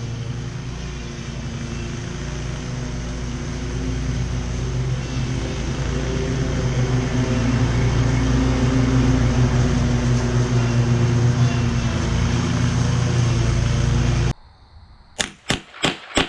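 Riding lawn mower engine running steadily and growing louder, then cut off abruptly near the end. After a short gap comes a quick run of sharp clicks, about five a second.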